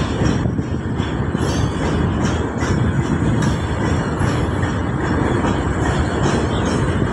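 Goods train of open box wagons rolling past on the adjacent track: a steady low rumble of wheels on rail, with occasional faint clacks.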